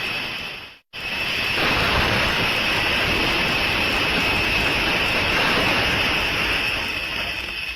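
A train passing close by at speed: a loud, steady rushing roar with a hissing high edge. It starts after a brief silent break about a second in.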